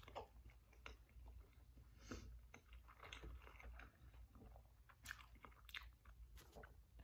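Faint chewing of a mouthful of burrito, with soft wet mouth clicks and smacks scattered through.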